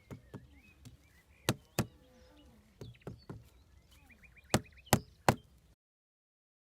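Irregular sharp knocks of hard objects striking, with two loud ones about a second and a half in and three close together near the end. The sound then cuts off abruptly.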